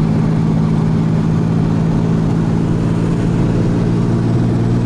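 Turbocharged Ecotec V6 car engine running at a steady speed, a loud, even low drone with no change in pitch.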